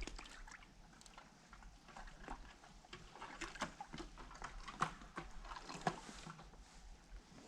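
Faint, irregular small clicks and rustles, two of them a little louder about five and six seconds in.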